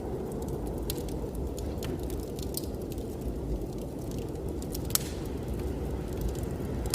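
Wood fire crackling with scattered small pops and one sharper pop about five seconds in, over a steady low rumble of blizzard wind.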